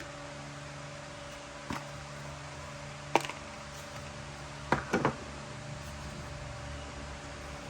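A few sharp knocks over a steady mechanical hum: a single knock, then a louder one, then three quick knocks close together.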